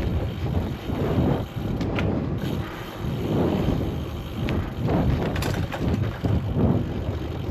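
Wind buffeting a helmet- or bike-mounted action camera's microphone while cycling, in uneven gusts. A few light clicks and rattles from the bicycle come through.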